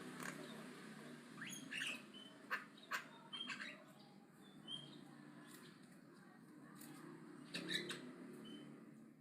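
Javan myna chattering: a run of short, harsh, sharp notes and brief chirps, with the loudest calls about two and a half to three and a half seconds in and again near the end.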